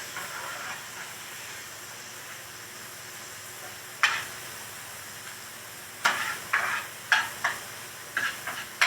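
Food sizzling steadily in a frying pan. A utensil strikes the pan once about four seconds in, and from about six seconds on there is a run of quick clinks and scrapes as the food is stirred and turned.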